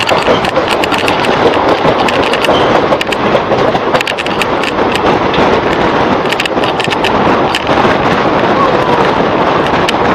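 Passenger train running at speed, heard from on board: a loud, steady rush of wind and rumble with a dense, irregular clatter of wheels on the rails.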